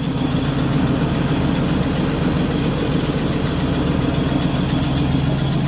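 A 1999 Ford F-450 crane truck idling steadily with an even, low hum.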